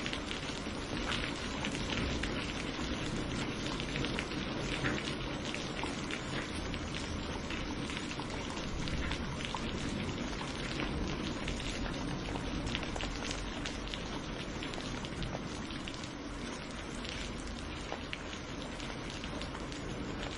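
Steady rain falling, with many small sharp drop hits over an even hiss and a low rumble underneath.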